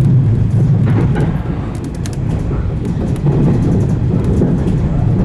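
115-series electric train running on the line, heard from inside the cab: a steady low rumble of wheels and traction motors, with a few irregular clicks from the track.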